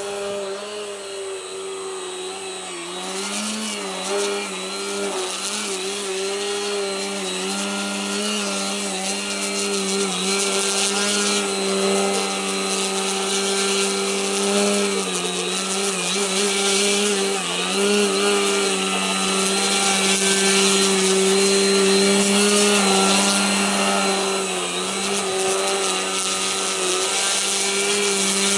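Electric motor and propeller of an Extra aerobatic RC airplane holding a nose-up hover, a steady buzzing drone. Its pitch wavers slightly up and down as the throttle is worked to keep the hover, and it grows gradually louder.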